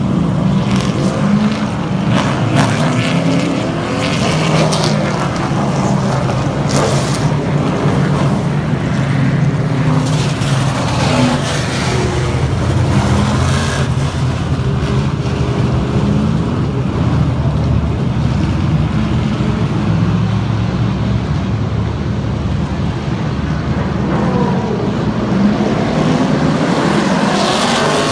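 Super trucks racing around a short oval track, several engines running hard and revving up and down as they pass and lap, in a continuous loud din.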